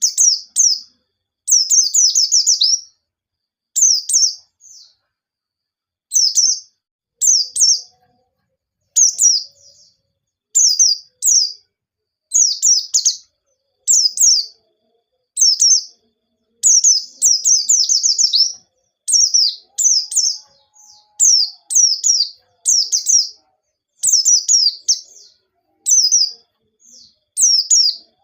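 White-eye (pleci) in full song: short bursts of rapid, high, downward-sweeping chirps, repeated about once a second with brief silences between.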